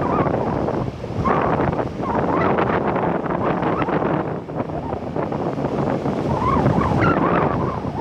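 Typhoon wind buffeting the microphone over heavy surf breaking on the beach, in gusts that swell and ease.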